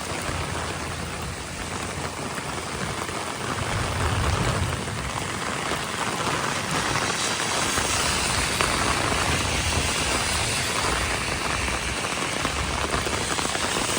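Rain falling steadily, an even hiss of drops on surfaces during a thunderstorm.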